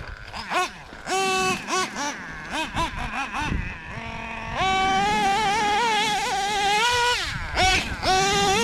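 Small two-stroke nitro engine of an RC monster truck, an OS .21 TM, running under throttle. It gives a string of short revs in the first half and drops briefly to a low idle. Then it holds a high wavering whine for a couple of seconds, falls back, and revs up high again near the end.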